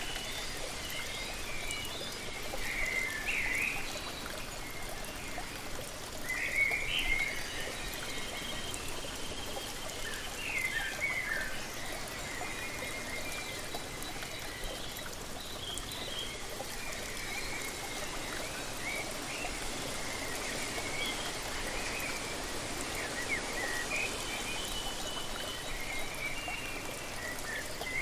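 Waterfall's steady rushing water, with birds singing short chirping phrases on and off throughout, loudest around three and seven seconds in.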